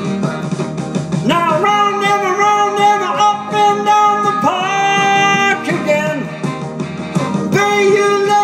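A song: a voice singing over guitar-backed music.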